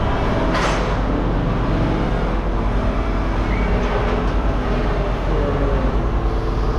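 Engine running steadily with a low hum, and a brief burst of noise about half a second in.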